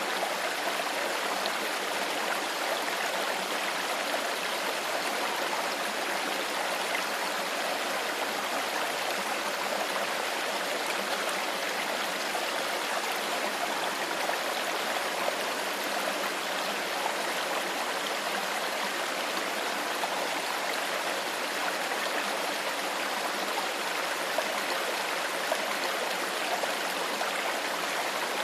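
Stream water flowing steadily over stones, an even rushing and trickling babble.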